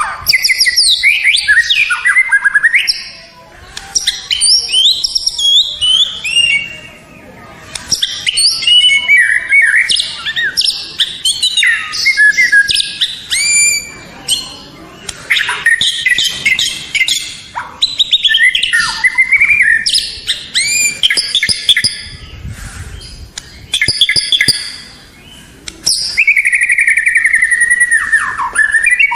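White-rumped shama (murai batu) singing a loud, varied song of whistled phrases, quick trills and sliding notes, in bursts broken by short pauses.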